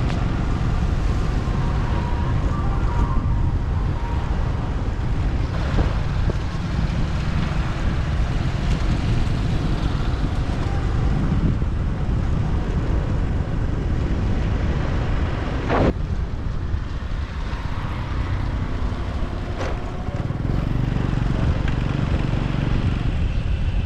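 Wind rumbling on the microphone of a moving motorbike, over the bike's running engine and road noise, with one sharp click about sixteen seconds in.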